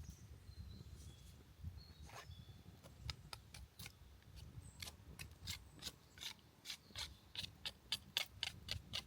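A run of short, sharp scraping strokes, about three a second, starting about three seconds in and growing louder toward the end.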